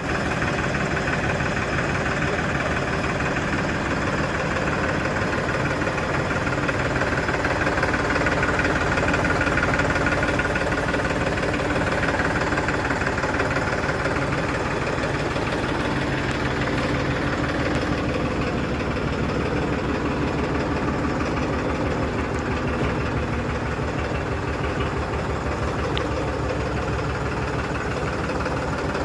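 Powertrac 47 hp tractor's diesel engine idling, running steadily with an even pulsing beat.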